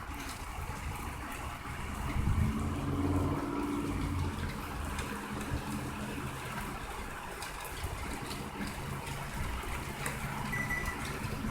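Heavy rain falling steadily, with a low rumble that swells about two seconds in and fades back over the next few seconds.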